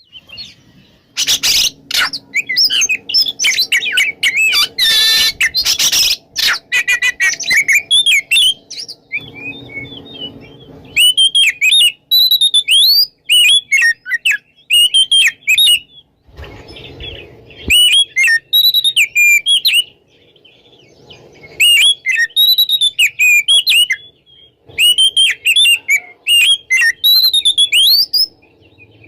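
Oriental magpie-robin singing in runs of quick, sweeping whistles and chirps, broken by short pauses. Harsh, scratchy notes fill the first several seconds.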